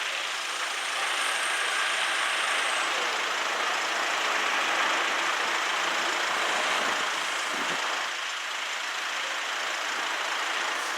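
Road traffic on a wet road: a steady hiss of tyres that swells slightly in the middle and eases near the end.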